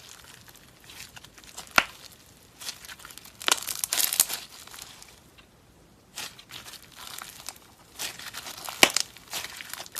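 Slime being squeezed and pressed by hand, making an irregular run of crackles and small pops, with a sharp snap about two seconds in and another near the end.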